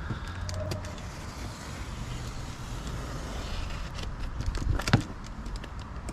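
Handling of a fridge's cardboard shipping box and its packing straps, with scattered clicks and scrapes and a sharp knock about five seconds in, over a steady low rumble.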